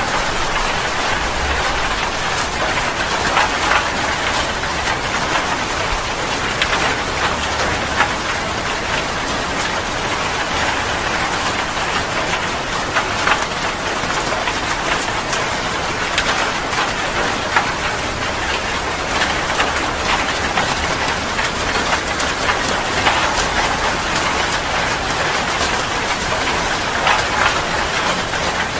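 Heavy rain falling steadily, a dense even hiss with many small drip ticks on a surface.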